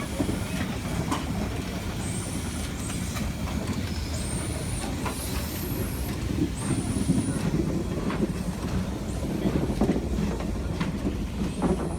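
Steam train leaving, its wheels rumbling along the rails with a clickety-clack of rail joints and several brief high-pitched squeals.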